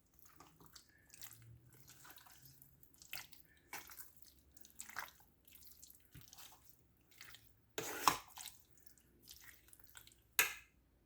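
Irregular wet squelching and slapping as raw chicken pieces are mixed by hand in a yogurt marinade, with two louder squelches, one about eight seconds in and one near the end.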